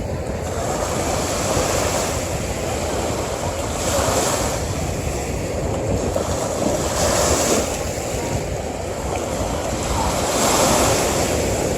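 Ocean waves breaking and washing onto a beach, with a constant low rumble of surf and a surge of hiss every three seconds or so, three in all.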